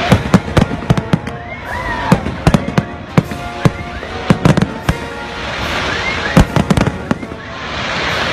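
Fireworks going off in rapid, irregular bangs and crackles, some in quick clusters, with a few short whistling glides among them.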